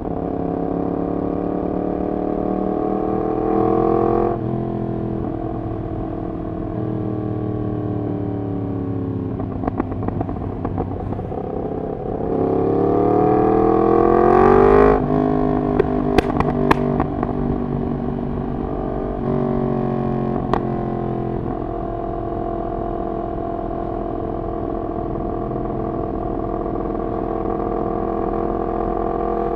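Yamaha MT-10's crossplane inline-four through a de-catted full exhaust system, under way: it revs up, drops off at a gear change and winds down slowly, then pulls hard to a peak about halfway and cuts off abruptly, followed by a few sharp cracks. It then picks up briefly and settles into a steady cruise.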